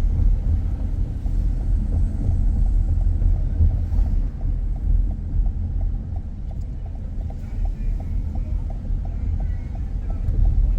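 Steady low rumble of a moving car heard from inside, with a light regular ticking, about three ticks a second, that starts about a second in and fades out near the end.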